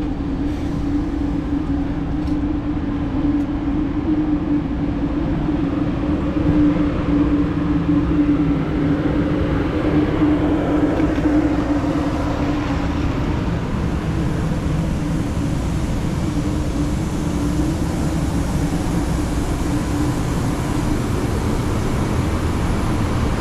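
Train engine idling at a station: a steady hum over a low rumble, with no break.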